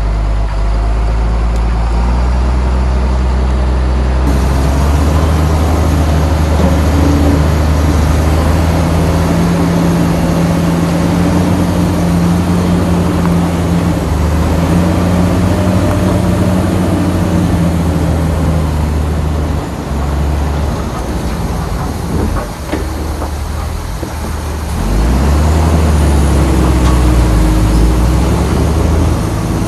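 Heavy diesel engine of a crawler bulldozer running under varying load, its low note rising and falling as it works. A few short knocks come about two-thirds of the way in, while the engine eases off, before it picks up again.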